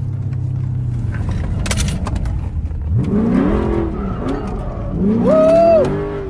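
Car engine heard from inside the cabin, running steadily and then accelerating hard: the revs climb, hold and drop twice, about three and five seconds in, the second time louder.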